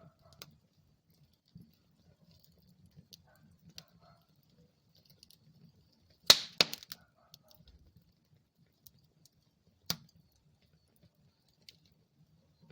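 Wood fire burning in a fireplace: a faint, low crackle with scattered small pops. There is a burst of loud, sharp pops a little past halfway through, and another single loud pop about three-quarters of the way in.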